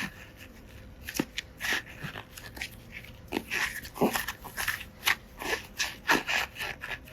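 Hands working slime mixed with small plastic charms: crunchy, crackling squishes in short irregular bursts.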